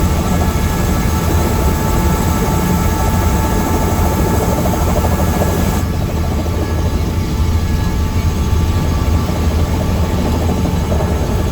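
Tour helicopter running steadily, a constant loud drone of engine and rotor.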